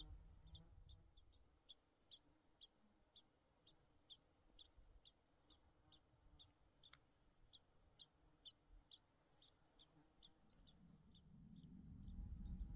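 A bird calling with short, high chirps repeated evenly about twice a second. Near the end the low buzz of flies comes in.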